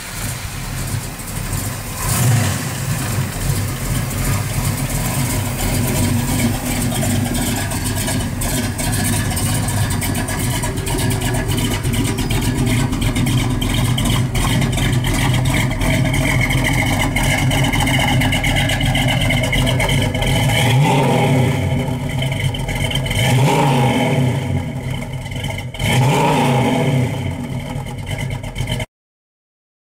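1971 Plymouth Barracuda's rebuilt 440 cubic-inch big-block V8 running steadily, with a quick rev about two seconds in. Later the revs rise and fall several times as the car pulls away, and the sound cuts off abruptly near the end.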